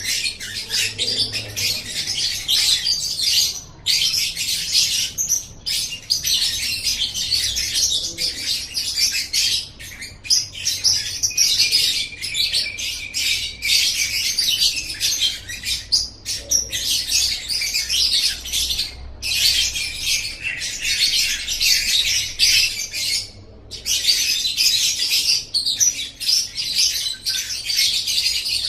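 Lovebird singing: long runs of rapid, high-pitched chattering and twittering, broken by a few short pauses.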